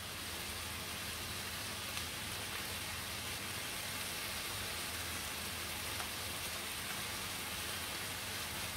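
Diced chicken frying in a pan: a steady, even sizzle, with a couple of faint clicks along the way.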